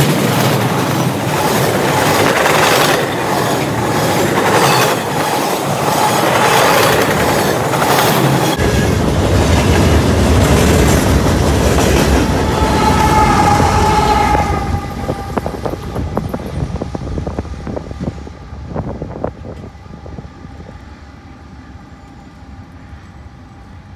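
A freight train's gondola cars pass with a rhythmic clickety-clack of wheels over the rail joints. About eight seconds in, a diesel locomotive at the rear of the train comes by with a deep engine rumble that fades as it pulls away. A crossing bell rings faintly near the end.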